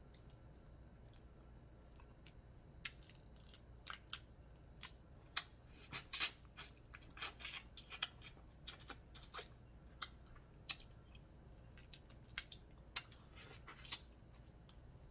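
Crab leg shells being broken open while eating: a run of sharp, irregular cracks and clicks, thickest in the middle and thinning out near the end.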